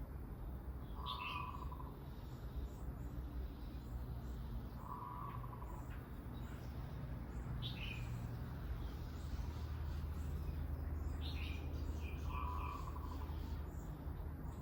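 Garden birds calling: a short low note sounds three times, a few seconds apart, along with sharp falling chirps, over a steady low hum.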